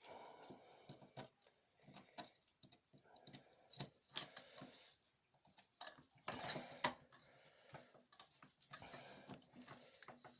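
Faint scattered clicks and light rustling of a hand pop-rivet tool and small metal parts being handled while a rivet is set in a metal detector shaft, with a short cluster of clicks about two-thirds of the way through.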